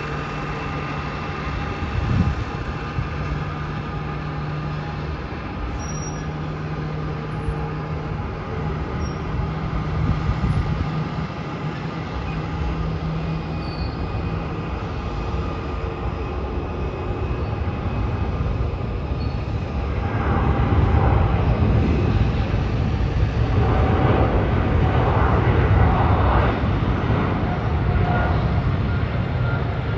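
Jet airliner engines, a Boeing 777-300ER's GE90 turbofans, giving a steady whine over a low rumble, which grows into a louder rumble about two-thirds of the way through as the aircraft powers up for departure.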